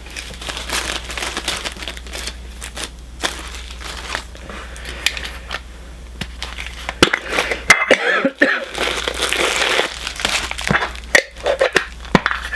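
Plastic and cardboard packaging of a Funko Soda being torn open and crinkled by hand, with irregular crackling and sharper snaps in the second half, over a steady low electrical hum.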